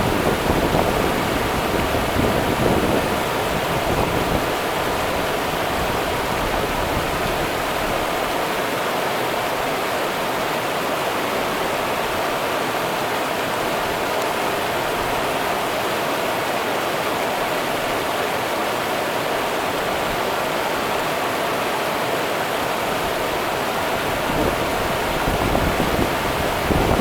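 Rio Grande river water running in a steady rush, swelling louder near the start and again near the end.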